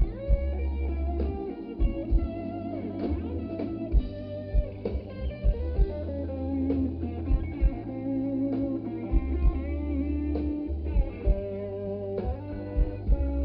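Blues band playing a tune: guitar lines with bent notes over bass and a steady drum beat.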